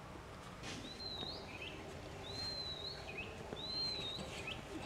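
A bird calling three times, each a high whistle that rises and then levels off, followed by a short lower note, over steady outdoor background noise.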